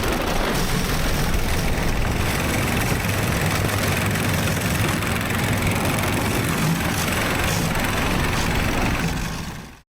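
Snowdog motorized tracked sled's engine idling steadily in extreme cold, under heavy wind noise on the microphone; the sound fades out near the end.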